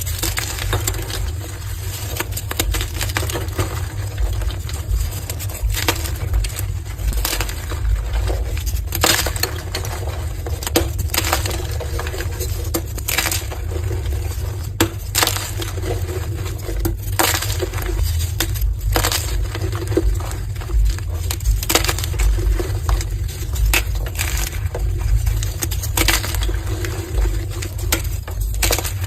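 Soft, crumbly pastel-dyed gym chalk blocks being crushed, a steady crackling crunch with sharper, louder crunches every second or two.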